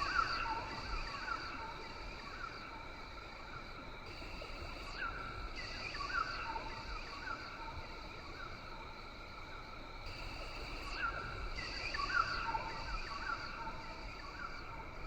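Rainforest ambience: a high, steady insect drone with clusters of short, falling bird chirps about a second in, again around six seconds and again around twelve seconds.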